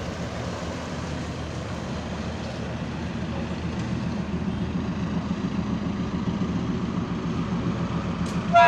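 Diesel locomotive engine running with a low, pulsing rumble, slowly growing louder as it draws near. Its horn begins right at the end.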